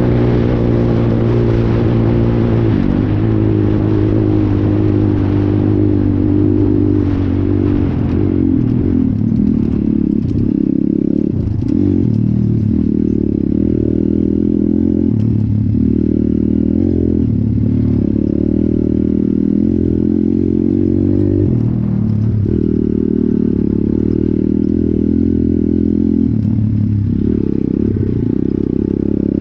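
Small single-cylinder pit bike engine, a Stomp Detroit 170, running under way. Its note eases down at first, then from about a third of the way in the throttle is rolled off and back on every few seconds.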